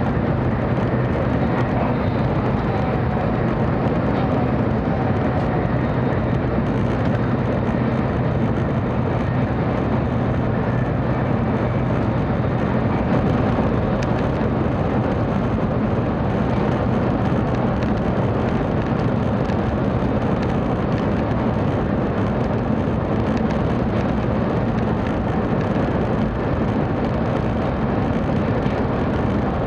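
Steady running noise inside the cabin of a 700 series Shinkansen travelling at speed: an unbroken rush and rumble, with a low hum that fades out about twelve seconds in.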